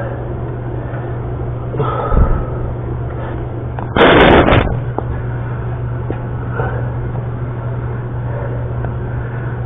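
Handling noise from a washer and nut being fitted by hand onto a toilet closet bolt, over a steady low hum. A brief loud rustling burst comes about four seconds in, with a softer one about two seconds in.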